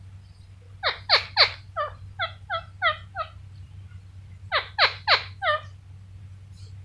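Indian ringneck parrot screeching in two loud bouts. Each bout opens with three sharp sweeping shrieks, followed by a few shorter, quicker calls; the second bout comes about three and a half seconds after the first.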